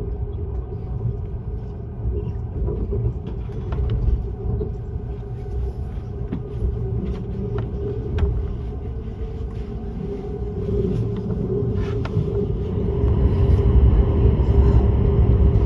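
ICE high-speed train running, a steady low rumble with a constant hum and a few light clicks, growing louder about thirteen seconds in.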